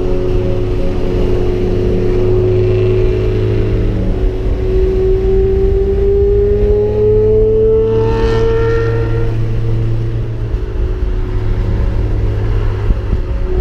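Lamborghini Murciélago V12 through a Fabspeed Motorsport exhaust, running steadily with a low drone; its note climbs slowly for a few seconds midway, then falls back.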